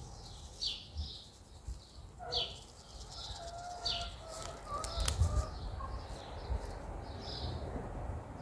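Small birds chirping: short, high chirps scattered throughout, with a fainter warbling call in the middle, over soft low handling bumps.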